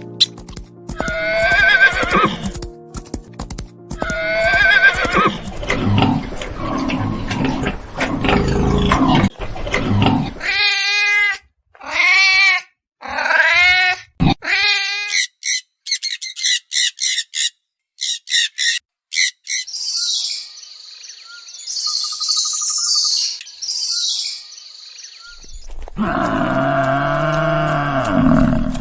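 A run of different farm animal calls, one kind after another: pitched calls in the first half, a stretch of high peeping near the middle, and a low drawn-out call near the end.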